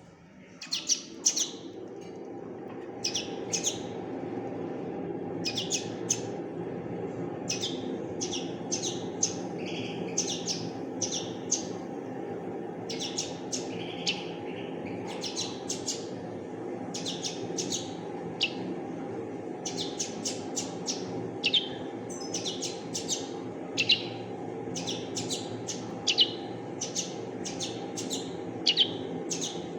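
Young common linnet giving short high chirps, singly and in quick runs of several, over a steady low hum.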